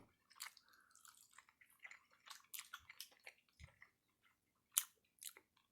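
A person chewing and smacking on a mouthful of chicken, with scattered faint wet clicks and one sharper click near the end.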